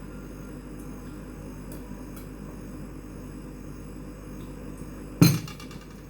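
One sharp clink of tableware, a hard knock with a short ringing tail, near the end over a faint steady background hum.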